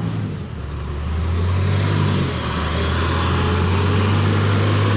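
Dump truck's diesel engine running under load in mud. Its note drops about half a second in and holds lower.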